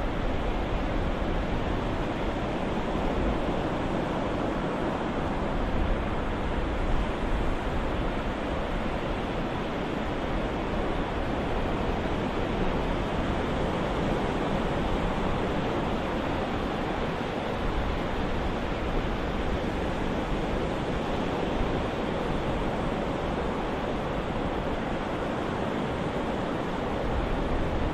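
Ocean surf used as a white-noise soundscape: a steady, even rushing wash of waves with no distinct breaks standing out.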